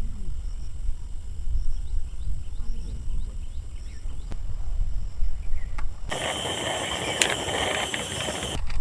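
Low wind rumble on the microphone. About six seconds in, a loud hiss like heavy rain starts abruptly and cuts off just as suddenly about two and a half seconds later.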